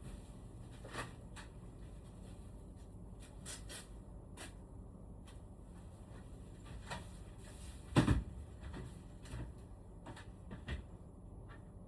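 Scattered light clicks and taps of parts and tools being handled, with one louder knock about eight seconds in, over a low steady hum.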